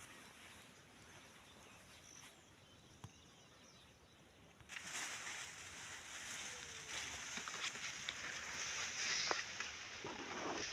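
Faint outdoor ambience. About halfway through, a louder steady hiss-like noise comes in suddenly, with scattered clicks and ticks over it.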